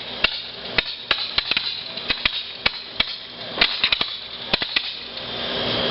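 Consumer fireworks popping and crackling: an irregular run of sharp cracks, several a second, with a hiss building near the end.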